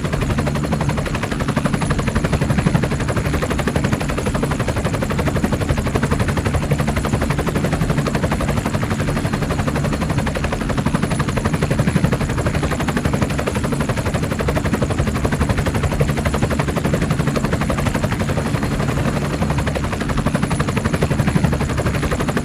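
Attack helicopter, likely the AH-1Z Viper, close by in flight: a fast, steady chopping pulse from the rotor over a low hum, unbroken throughout.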